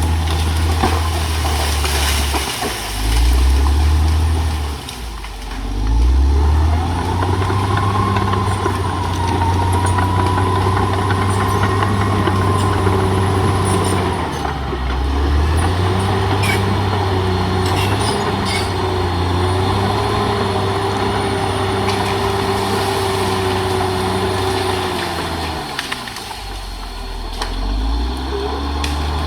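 Caterpillar D6R XL bulldozer's diesel engine working under load. Its note sags and picks up again several times as the load comes and goes, with a whine over it through much of the middle and a few short clanks.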